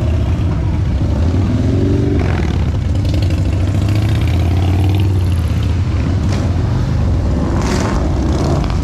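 Motorcycle engines rumbling steadily as bikes ride past, with an engine revving and rising in pitch about two seconds in.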